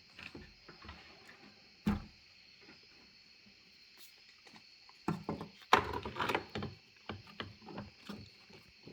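Scattered knocks and clatter of parts being handled while a replacement fuel pump is fitted into the tank: one sharp knock about two seconds in, then a busy run of clatter a few seconds later, over a faint steady high hum.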